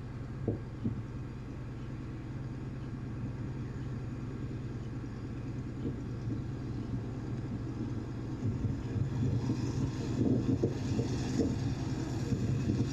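Boeing Stearman biplane's radial engine running steadily, with a couple of light knocks near the start and rushing wind noise building over the last few seconds.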